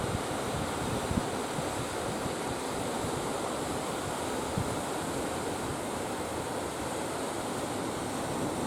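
Steady rush of sea surf, with strong wind blowing across the microphone in low gusts.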